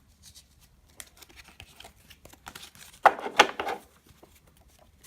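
Glossy chromium-stock baseball cards being flipped through and handled: soft ticks and slides, with a louder rustle of cards about three seconds in.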